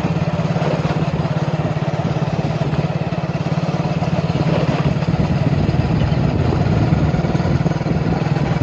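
A small vehicle engine running steadily with a fast, even pulse, with road noise over it.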